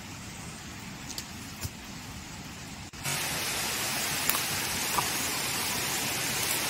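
Steady rushing hiss of water, which jumps abruptly louder about three seconds in, with a few faint ticks.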